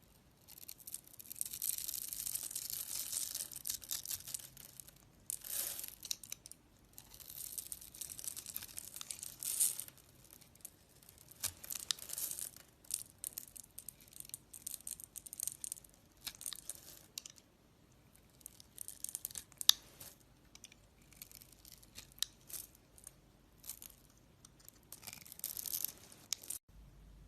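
A knife cutting and scraping through soap, in a run of crisp, crackling strokes, each a second or two long, with short pauses between. It cuts off abruptly just before the end.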